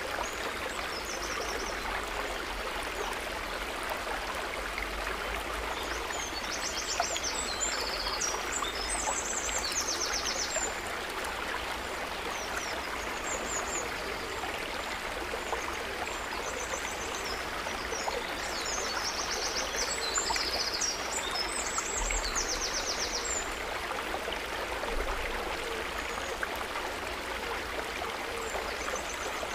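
Steady, gently trickling and gurgling water. Short, high, rapidly pulsing trills come and go over it.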